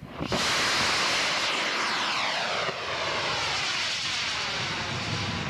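Radio-controlled scale model aircraft's engine running hard as it launches and goes past, its whining pitch falling steadily as it passes.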